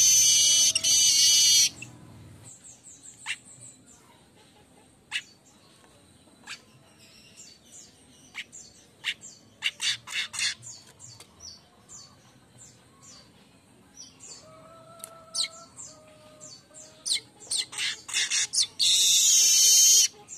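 Streaked weaver singing: a loud, dense buzzy song at the start and again near the end, with scattered short chirps and clicks between the bouts.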